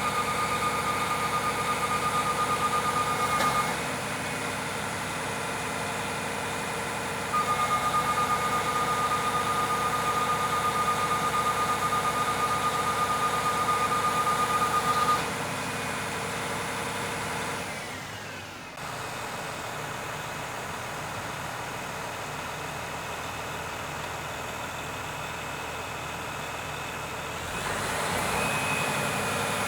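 Aerial ladder fire truck's engine running steadily. A high, even warning tone sounds for about three seconds at the start, then again for about eight seconds.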